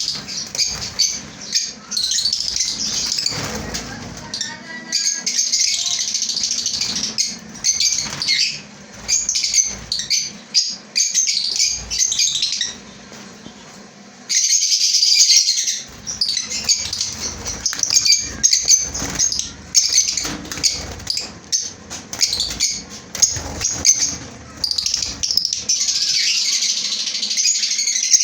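A colony of caged lovebirds chattering with dense, shrill chirps and calls, briefly quieter about halfway through.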